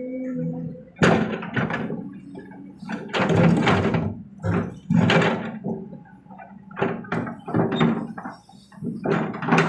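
Kobelco SK200 excavator loading a dump truck: a run of irregular heavy thuds and knocks, about a dozen, over a faint steady engine hum.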